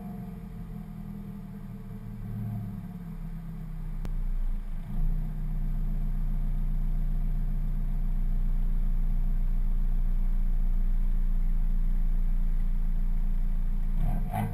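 Dodge Dart GT's 2.4-litre MultiAir four-cylinder engine running through its stock exhaust: a low, steady engine note that grows louder about four to five seconds in and then holds at a steady higher level.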